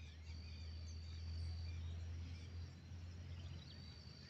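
Small birds chirping, many short calls overlapping, with a steady high-pitched whine held twice for over a second and a low rumble underneath.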